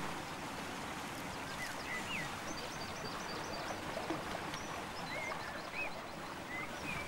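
Small birds chirping and trilling, short rising and falling whistles and quick runs of high repeated notes, over a steady rushing hiss.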